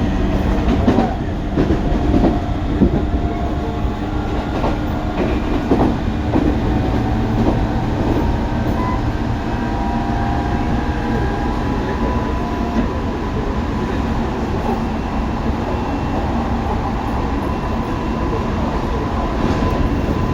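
Tobu 9050 series electric train running on the line: steady rumble and wheel-on-rail noise with faint steady tones from the drive, and a few sharp clacks over rail joints in the first six seconds.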